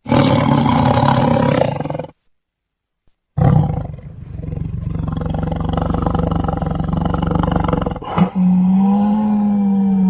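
Tiger growling loudly. One growl breaks off about two seconds in, and after a short silence a second long growl follows. Near the end, after a brief click, comes a held growl with a steadier pitch.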